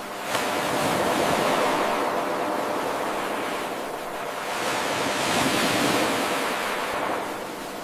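Ocean waves surging and washing on a shore in two swells. There is an abrupt jump in level about a third of a second in, where the 8-second wave recording loops back to its start.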